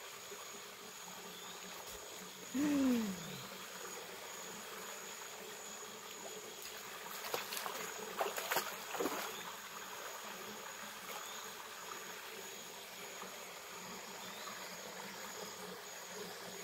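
Rainforest ambience: a steady high insect chorus over an even background hiss. About three seconds in a single short call slides down in pitch, and a few light knocks and rustles come around the middle.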